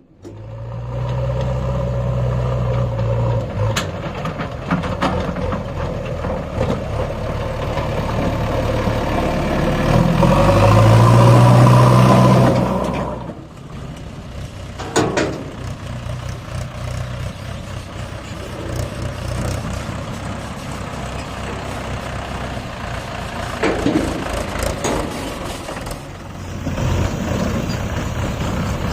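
Tractor diesel engine working hard pulling a loaded trolley, getting louder to a peak about twelve seconds in, then dropping off sharply and running more quietly. A few sharp clanks come through along the way.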